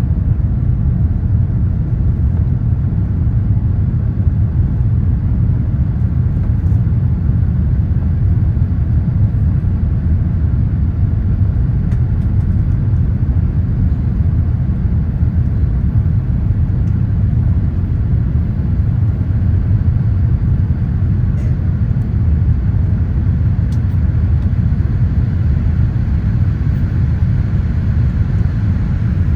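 Steady low rumble of a Boeing 787-8 airliner's cabin, the engine and airflow noise heard from inside the aircraft, unchanging in level.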